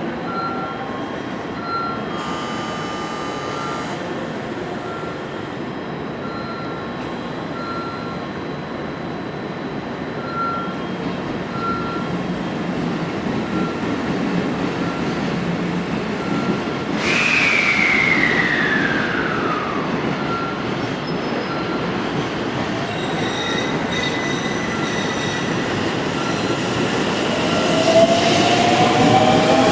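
Train pulling out of a station platform, its running noise slowly building. A short beep repeats through the first half, a squeal falls in pitch about halfway through, and rising whines come in near the end as it speeds up.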